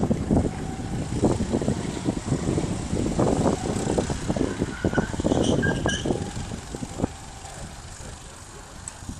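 Go-kart engines running on a track, getting quieter about seven seconds in.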